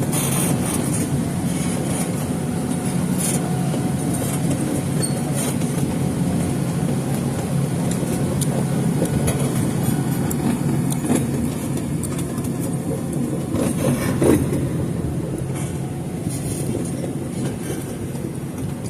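Steady rumble of a moving passenger train heard from on board, with occasional faint clicks and one brief louder knock about two-thirds of the way through.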